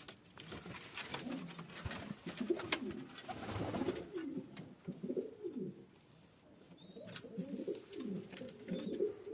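Domestic pigeons cooing in repeated low, rolling phrases, with a short lull about six seconds in and a few faint clicks.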